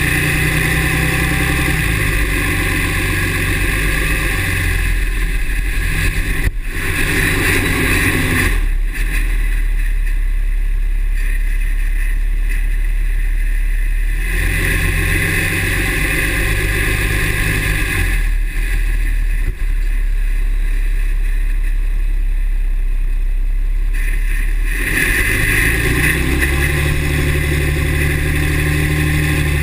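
2009 Dodge 6.7-litre Cummins diesel running, with a high squeal that comes and goes in stretches of several seconds. The owner hears this squeal only with the exhaust brake engaged and thinks it sounds like the turbo.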